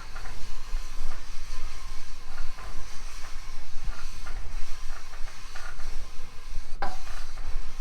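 Cast-iron barrel lap being worked in and out of an engine main bearing race with lapping compound: a steady gritty scraping, the lap gripping with good friction.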